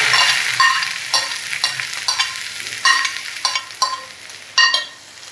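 Ground prawn paste sizzling as it lands in hot coconut oil with mustard seeds and curry leaves, the sizzle loudest at first and fading. Repeated short scrapes and clinks, with a ringing tone, come as the paste is scraped out of a glass bowl into the pan.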